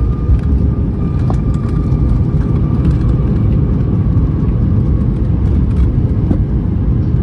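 Airliner cabin noise after touchdown: a loud, steady low rumble from the engines and the wheels on the ground, with a faint steady whine above it.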